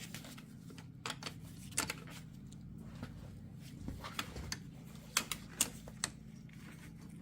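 Scattered sharp metallic clicks and clinks from a wrench twisting a universal-joint bearing cap off a Jeep front axle yoke, over a low steady hum.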